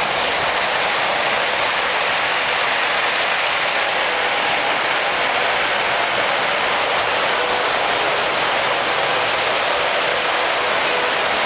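Miniature model trains running on their layout tracks: a steady mechanical rattle of small wheels and motors.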